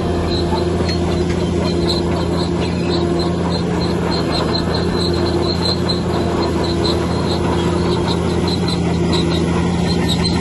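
Bulldozer's diesel engine running steadily, with a quick series of short, high squeaks repeating several times a second over the hum.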